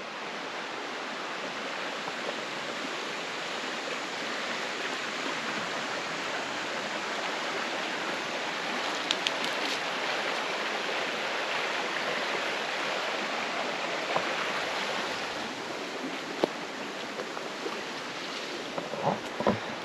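Small creek running steadily, an even rush of water.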